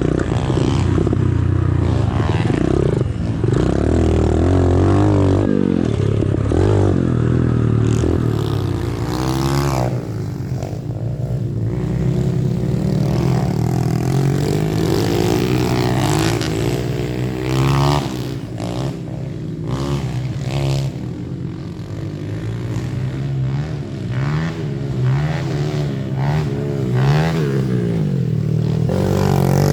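Small single-cylinder four-stroke pit bike engines revving up and falling back again and again as they ride around a dirt track. At times the pitch of more than one bike overlaps.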